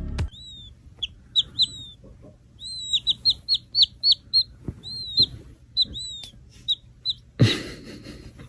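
A bird chirping over and over in short high chirps, some coming in quick runs of several a second. There is a brief rustling burst about seven and a half seconds in.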